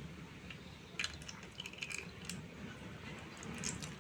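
Faint kitchen handling sounds: a few light clicks and taps of a vessel and utensil over a low hum, as cooled jaggery syrup is added to wheat flour.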